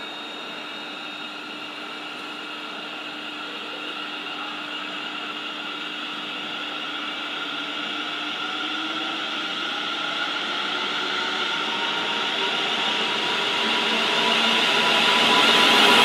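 London Northwestern Railway electric multiple unit arriving along the platform, growing steadily louder as it draws near. A whine rises in pitch about halfway through, and high-pitched squealing from the train builds near the end as it runs alongside.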